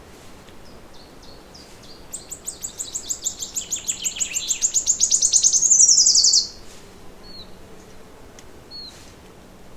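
A songbird singing one long, high trill of rapid repeated notes, starting about two seconds in, growing louder and quicker for about four seconds and ending in a falling run before it stops; a few short faint chirps follow.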